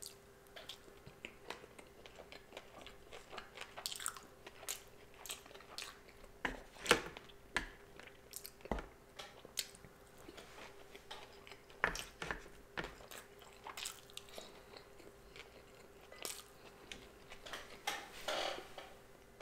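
Close-miked chewing of a sushi roll: irregular wet smacks and bites, the loudest about seven seconds in, over a faint steady hum.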